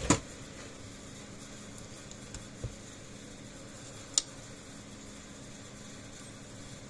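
Handling sounds while power leads are hooked back up to a fence charger: a knock at the start, a soft thump about two and a half seconds in and a single sharp click a little after four seconds, over a steady low hum.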